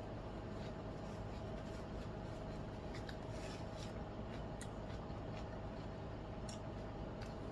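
Faint scattered clicks and small crunches of someone eating a salad, over a steady background hum.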